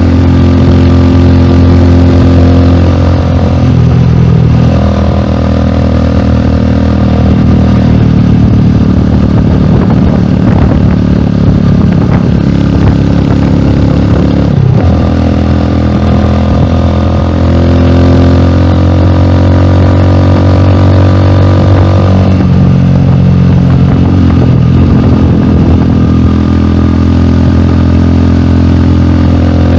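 Rusi Classic 250 motorcycle engine running through a bullet-style exhaust pipe on the stock elbow, a loud steady exhaust note. The engine speed shifts a few times, the pitch dropping and rising with small throttle changes.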